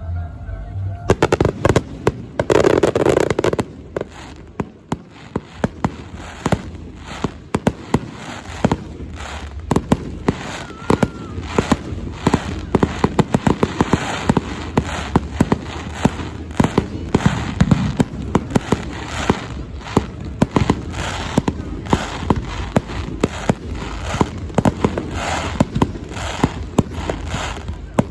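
Aerial fireworks bursting: many sharp bangs and cracks in quick succession, fewer for a few seconds after the opening, then a dense, rapid crackle that keeps up through the rest.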